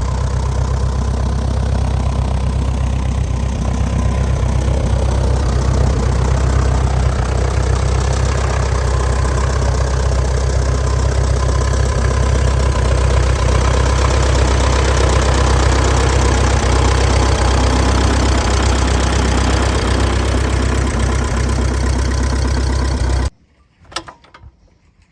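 1939 Piper J3 Cub's small air-cooled flat-four engine and propeller running steadily after being revived from long storage. The sound cuts off suddenly near the end.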